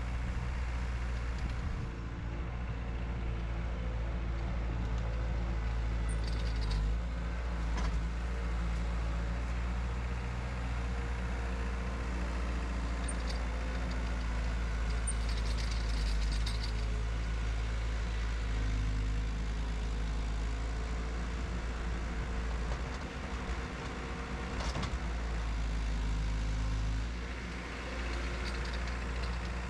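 2004 Cat 247 compact track loader's diesel engine running steadily, its level shifting a little as the load changes, with a few short knocks along the way.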